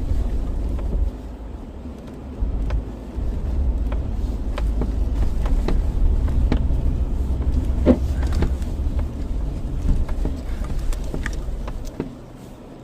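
Vehicle driving on the road: a steady low rumble of engine and tyres with scattered small clicks and knocks. The rumble drops away near the end.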